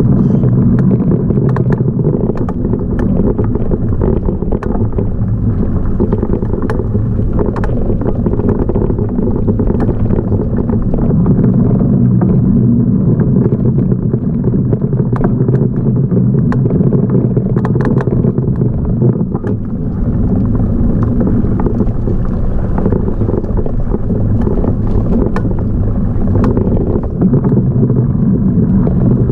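Steady low rumble of wind and riding noise on an action camera mounted on a moving bike, with scattered small knocks and rattles.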